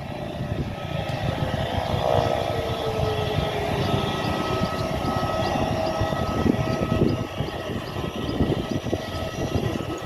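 Cessna 208 Caravan's single Pratt & Whitney PT6A turboprop engine running: a steady whine over a broad rushing noise, with one tone gliding slightly down during the first few seconds.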